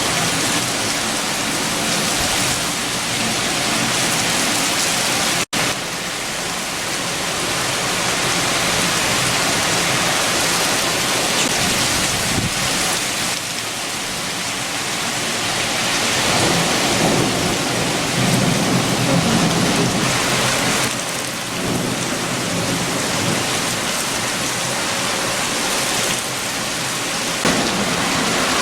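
Heavy rain with strong wind, a dense steady hiss that swells and eases in gusts, with a deeper rumbling swell about eighteen seconds in. The sound cuts out for an instant a little over five seconds in.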